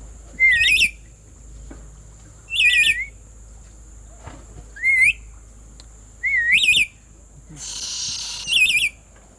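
Black-capped lory giving five short, wavering whistles, one about every two seconds, each rising and falling in pitch. A harsh, raspy screech comes just before the last whistle.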